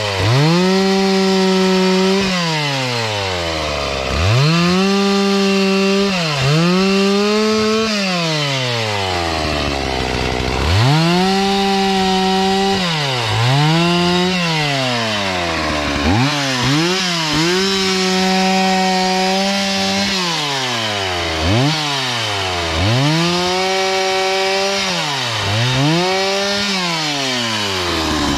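Two-stroke chainsaw cutting wood. It is revved to full throttle for a second or two, then drops back toward idle, about a dozen times in a row.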